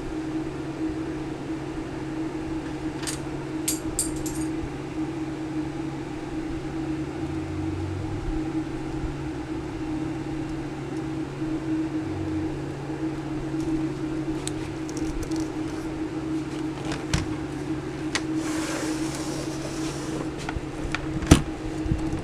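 A steady low mechanical hum, like a small fan or motor, with a few scattered light clicks and one sharper tap near the end.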